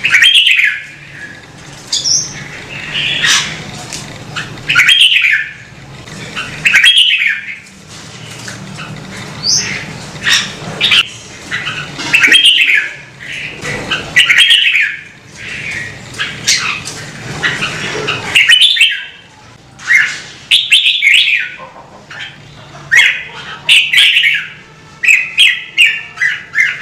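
Red-whiskered bulbul singing: loud, short whistled phrases repeated every second or two, over a faint steady low hum.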